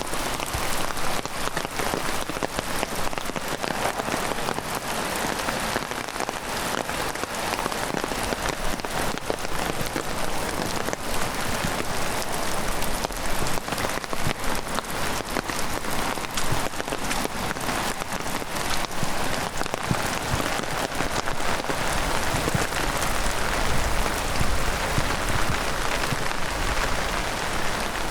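Heavy rain falling steadily, a dense hiss with many sharp individual drop hits close by.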